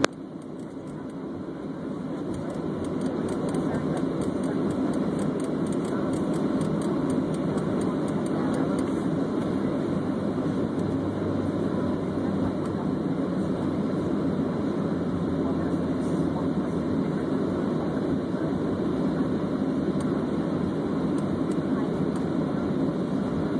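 Jet airliner's engines and airflow heard from inside the passenger cabin during takeoff: a steady roar that builds over the first few seconds, then holds.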